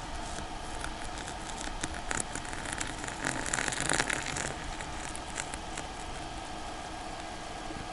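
Storm wind and wet snow pattering and crackling on the fabric of a winter fishing tent, with a louder gust swelling about three seconds in.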